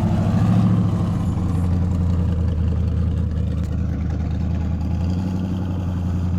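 Off-road vehicle engine running at low speed, a steady deep drone whose note shifts slightly about five seconds in.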